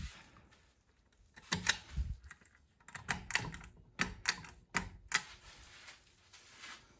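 An irregular run of about ten sharp clicks and light knocks, in quick clusters through the middle of the stretch, some with a dull thud under them.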